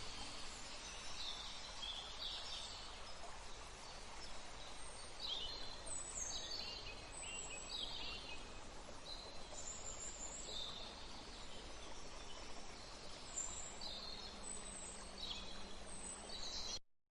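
Birds chirping in short, falling high-pitched calls, in scattered clusters, over a steady background hiss of outdoor ambience. The sound cuts off suddenly near the end.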